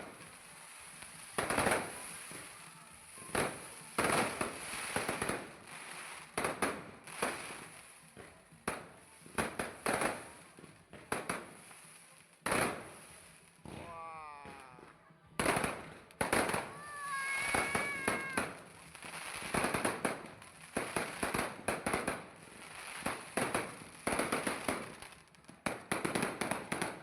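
Fireworks going off in a steady series of sharp bangs, roughly one every second or two, each trailing away briefly.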